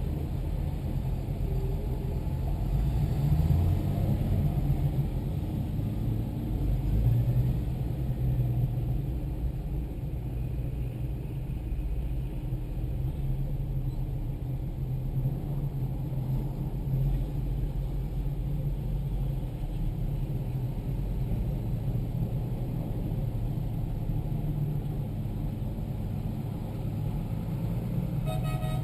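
Diesel tractor engine running steadily under way, a low drone that swells briefly a few seconds in.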